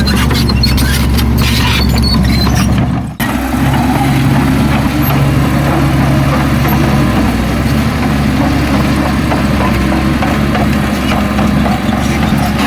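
Heavy diesel engine of earthmoving machinery running steadily, with a brief break in the sound about three seconds in.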